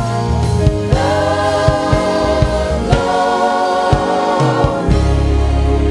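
Gospel choir singing a slow worship song over a band with bass and drums: two long sustained sung phrases, each held about two seconds.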